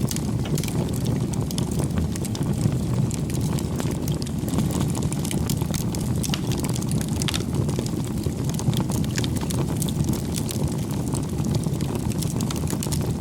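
Wood campfire burning steadily, with a low rumble of flame and frequent small sharp crackles and pops of the burning wood.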